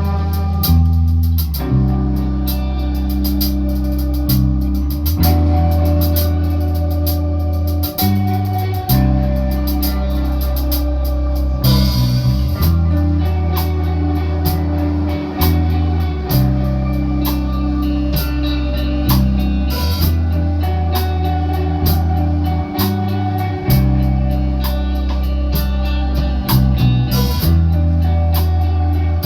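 A rock band playing live: guitar and bass guitar over a drum kit, with low bass notes held and changing every second or two under frequent cymbal hits.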